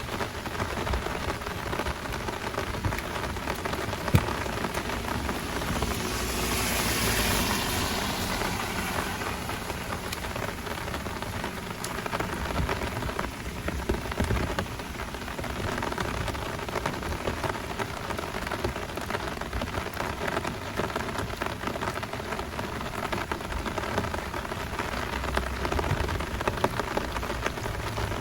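Heavy rain falling steadily in a downpour, a dense pattering hiss. A hiss swells and fades about a quarter of the way in, and there is one sharp click a few seconds in.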